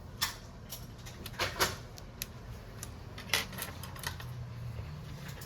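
A handful of sharp clicks and light knocks from small hard objects being handled, over a low steady hum.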